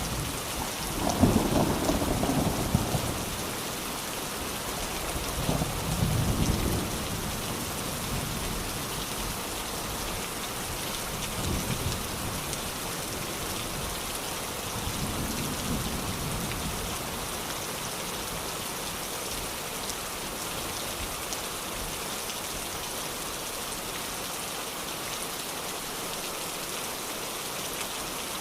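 Steady heavy rain falling on surfaces, with several low rolls of thunder in the first half, the loudest about a second in. The later rolls are weaker, and only the rain remains after that.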